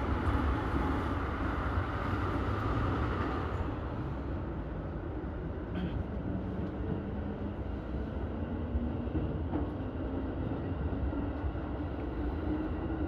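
Keihin-Tohoku Line E233-1000 series electric train running, with a steady low rumble and a faint motor tone that climbs slightly in pitch near the end.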